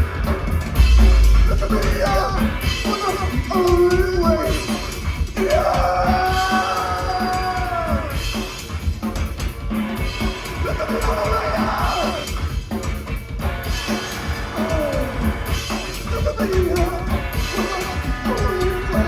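Live rock band playing loud, with a fast, busy drum beat, heavy bass and yelled, sung vocals over it.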